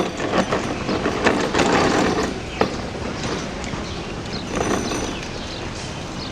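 Kawasaki M9 electric train rolling out, its wheels knocking over rail joints above a steady rolling noise, loudest in the first couple of seconds and then easing.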